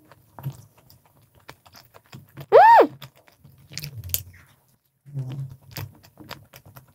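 Close-up chewing of a soft, dense tiramisu cookie-tart, with small wet mouth clicks and no crunch. About two and a half seconds in there is a short 'mm' hum that rises and falls in pitch.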